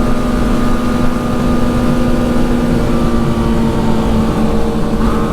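Motorcycle engine running at a steady pitch while riding, over a loud rush of noise, with a pitch rising slightly near the end.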